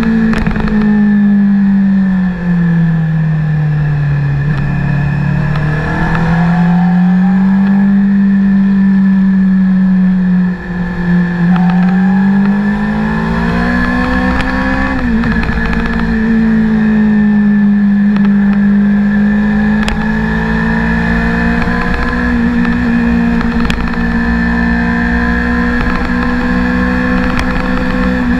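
Honda CBR600RR's inline-four engine running under way, heard from on the bike over wind rush. Its note sags and climbs with the throttle, dips briefly about ten seconds in, and drops sharply about fifteen seconds in before holding steady.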